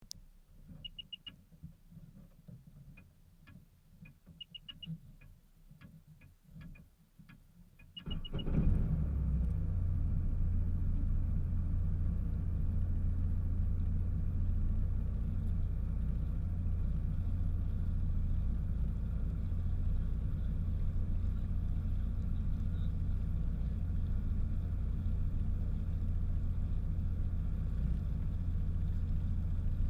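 Faint clicks and short electronic beeps, then about eight seconds in a jet ski's engine starts and runs steadily with a low rumble.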